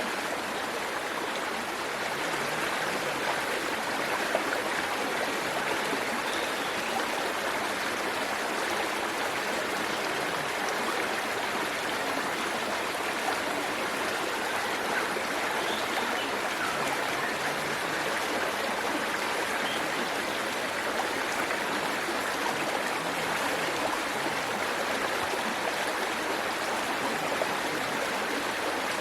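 Waterfall and stream water rushing and splashing in a steady, even rush.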